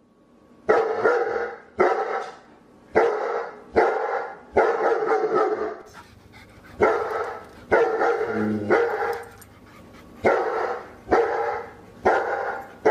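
A dog barking over and over, about one bark a second, each bark sharp at the start and trailing off.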